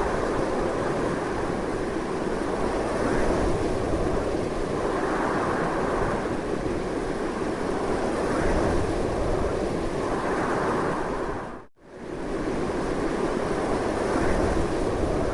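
Strong, continuous wind rushing in slow gusty swells. About three-quarters of the way through it drops away almost to nothing for a moment and comes straight back.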